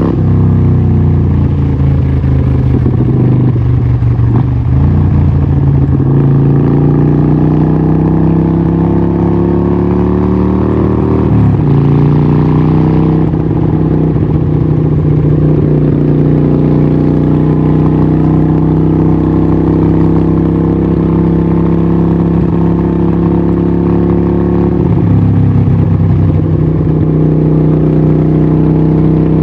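Harley-Davidson 1200 Nightster's 1200cc Evolution V-twin running loud through a Vance & Hines exhaust, its note climbing slowly, dropping abruptly about eleven seconds in, then holding steady and dropping again near the end.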